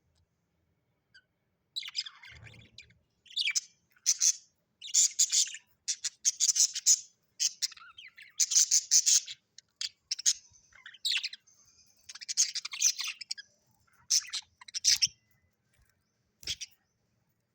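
A pet parrot calling, a run of short, harsh, high-pitched chirps and squawks in bursts that starts about two seconds in. A short low knock comes near the end.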